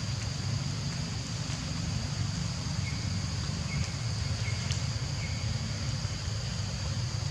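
Outdoor ambience: a steady low rumble under a steady high drone, with a few faint short chirps in the middle.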